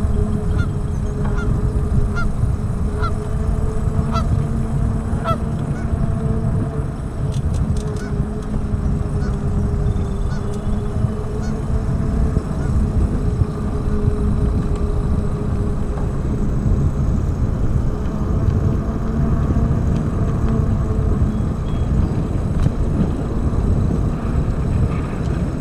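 Geese honking, short calls about once a second over the first several seconds, over a steady wind rumble on the microphone and a low steady hum.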